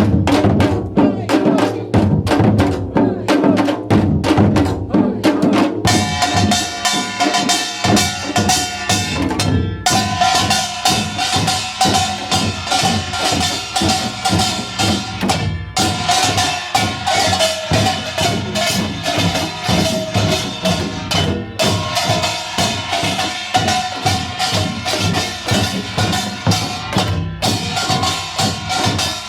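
A pungmul percussion group playing janggu hourglass drums in a fast, dense rhythm. About six seconds in, kkwaenggwari small gongs join with a bright, ringing metallic clang. The ensemble then plays on in repeating phrases, with a brief break roughly every six seconds.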